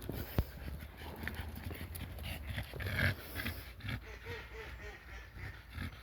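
A dog snuffling and panting, with scattered small clicks and knocks and a couple of faint short whines.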